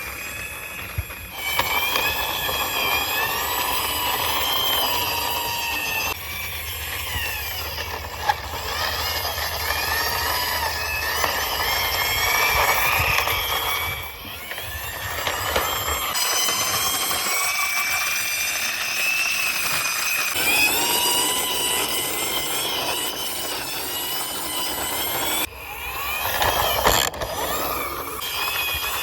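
Vehicle-like running noise with wavering high-pitched tones as a toy ambulance is driven along by hand. The sound drops away briefly about 14 seconds in and again near 25 seconds.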